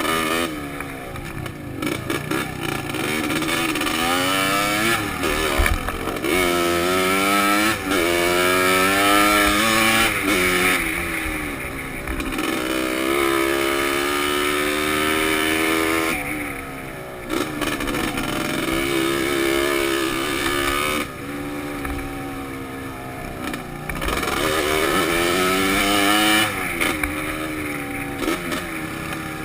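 Dirt bike engine revving up again and again as it accelerates along a trail, each rise in pitch broken by short throttle-off lulls, heard from a helmet-mounted camera with wind rush. Knocks and clatter from the bike over rough ground come in between.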